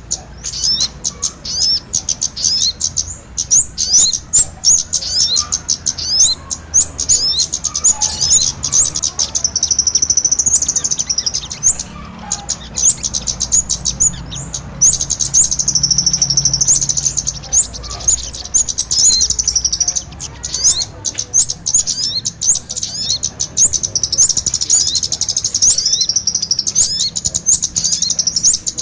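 Bird-lure recording of kemade and sogon ontong calls: a dense run of rapid, high chirps, with several long stretches of a continuous high trill.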